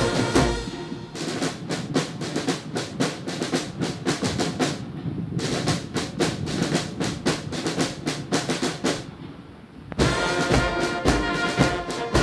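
Military band music: brass at the start gives way about a second in to a long passage of quick snare-drum strokes, and the brass comes back in near the end.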